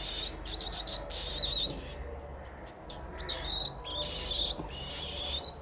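Baby cockatiel giving many short, high, wavering chirps in two runs with a lull in the middle. The owner takes the calling for the chick missing its mother.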